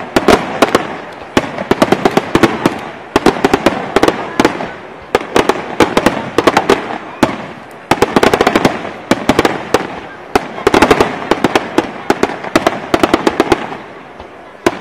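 Aerial firework shells bursting in dense volleys of sharp bangs and crackles, one cluster after another every second or two, thinning out near the end.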